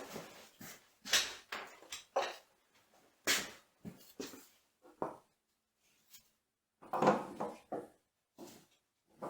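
Irregular knocks and clunks of tools and metal parts being handled while a milling machine's gear train is taken apart, roughly a dozen separate hits with the heaviest about seven seconds in.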